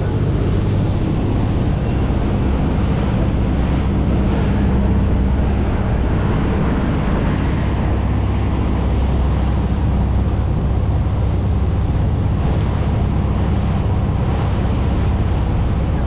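A boat under way: a steady low engine drone, with wind buffeting the microphone and water rushing past the hull.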